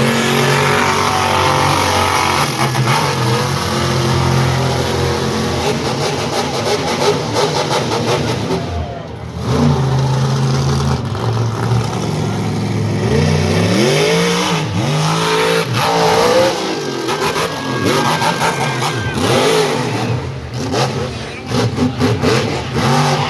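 Monster truck engine running hard and revving, its pitch sweeping up and down repeatedly, with a brief drop in loudness about nine seconds in.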